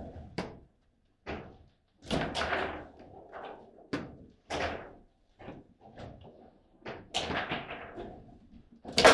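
Table football play: the ball is struck by the rod-mounted player figures and knocks around the table in a run of sharp, irregular clacks and thuds, the loudest hit near the end.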